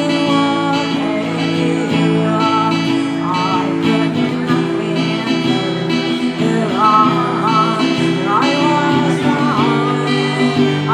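Live acoustic guitar music: chords strummed steadily, with a melody line gliding above them.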